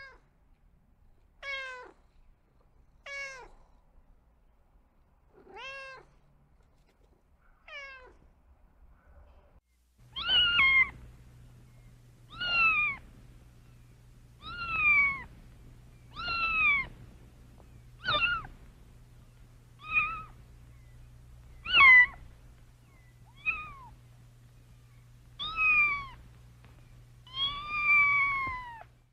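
A cat meowing over and over. There are five fainter meows about every one and a half to two seconds, then from about ten seconds in a louder run of about ten meows, one roughly every two seconds, over a steady low hum.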